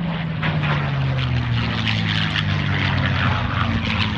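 Propeller-driven, piston-engined airplane flying by, its engine drone sliding slowly down in pitch as it passes.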